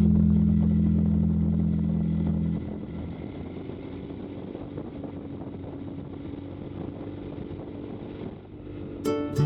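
Motorcycle on the move: a steady low engine hum that drops away about two and a half seconds in, leaving wind and road noise.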